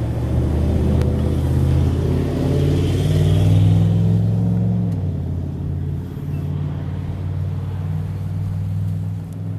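A large engine running with a low, steady drone, its note shifting about five seconds in.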